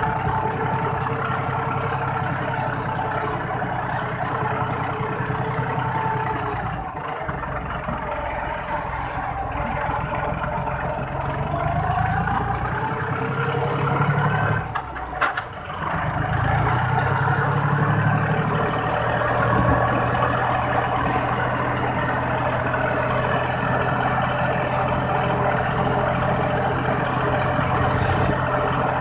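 Iseki 40 hp tractor's diesel engine running under way, heard from the driver's seat through an aftermarket 'fuel-saving' exhaust pipe. The engine note drops briefly about halfway through, then picks back up and runs steadily.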